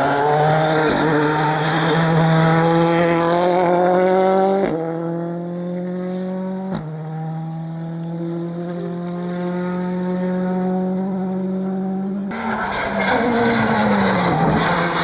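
Rally cars at full throttle on a tarmac stage, the engine note climbing in pitch as they accelerate, with some tyre squeal. The sound switches abruptly twice, about a third of the way in and near the end, from one car to another.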